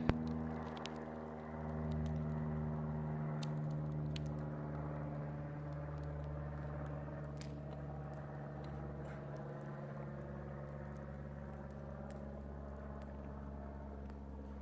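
Airplane engine droning as the plane makes a pass over the house, a steady hum of several tones that slowly fades, with a few faint clicks.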